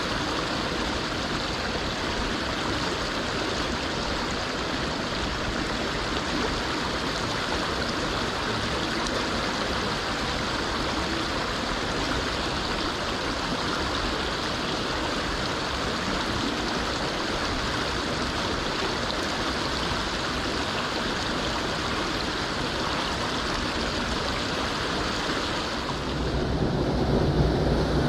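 Mountain stream rushing steadily over rocks. Near the end, a low rumble comes in under the water sound.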